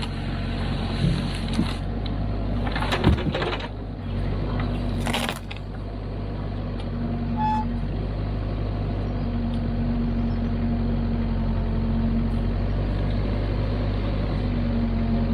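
Kubota KX121-3 mini excavator's diesel engine running steadily, with several sharp metallic knocks and clanks in the first few seconds, the loudest about three seconds in.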